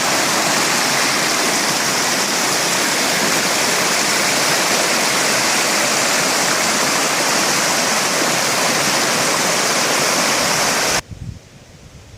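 Steady, loud rush of falling water from a waterfall. It cuts off suddenly near the end, leaving a much quieter background with a few soft knocks.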